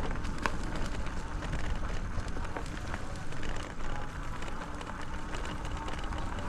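Bicycle tyres rolling over a sandy trail, a steady crunching hiss with many small crackles over a low rumble.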